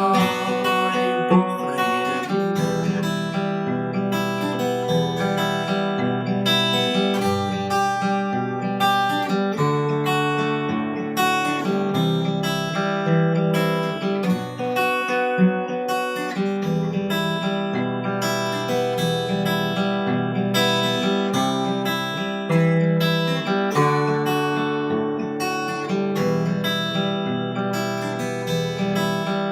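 Cort Earth 200 steel-string acoustic guitar played fingerstyle, an instrumental passage of picked chords with no singing.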